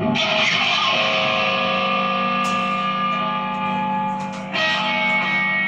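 Electric guitar through effects and distortion, two chords struck and left to ring, the second about four and a half seconds in.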